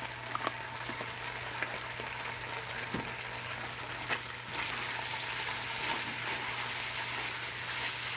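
Shredded chicken sizzling in a pot with freshly added sauce, stirred with a silicone spatula that scrapes and clicks against the pan now and then. The sizzle grows a little louder about halfway through as the stirring picks up.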